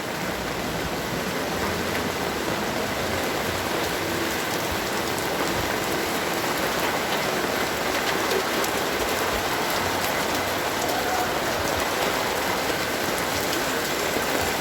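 Heavy rain falling steadily, with a constant hiss of many small drops hitting surfaces.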